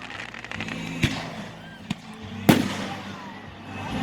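Fireworks going off: a patter of crackles at the start, a sharp bang about a second in, and a louder bang about two and a half seconds in that rumbles away.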